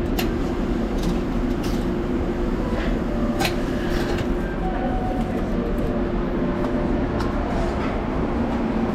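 Steady low rumble of a vehicle, with a faint hum and a few scattered clicks and knocks.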